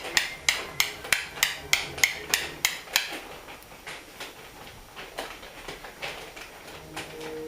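Yale-profile bump key in a Bird pin-tumbler cylinder lock being struck repeatedly to bump the lock open: sharp metallic taps about four a second, turning into lighter, sparser taps after about three seconds.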